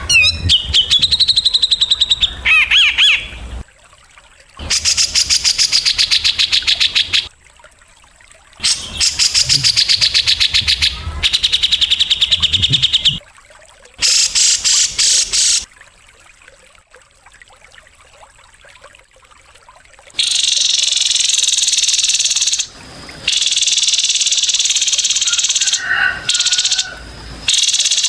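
Recorded bird calls used as a masteran for training caged songbirds: rapid, high trills in bouts of two to four seconds with pauses between. About two-thirds of the way in they give way to a long, harsh, buzzing call broken by short gaps.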